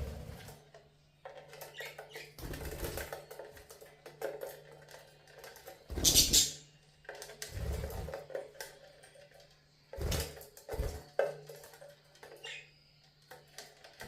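Pet budgies moving about in their cage: irregular clicks, scratches and pecking, with louder flurries about six seconds in and near ten seconds, over a faint steady low hum.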